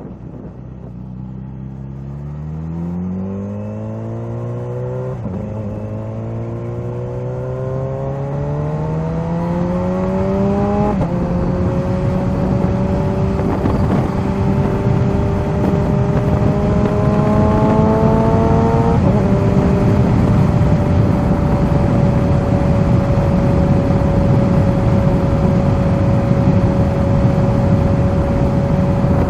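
Kawasaki Z H2's supercharged inline-four accelerating through the gears: the pitch climbs and drops back at three upshifts, about 5, 11 and 19 seconds in, then holds steady at cruising speed. A rush of wind grows louder as the speed builds.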